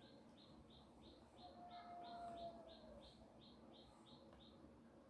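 Near silence with a faint bird chirping rapidly in the background, about three even chirps a second, stopping near the end. A faint drawn-out call slides slightly downward midway.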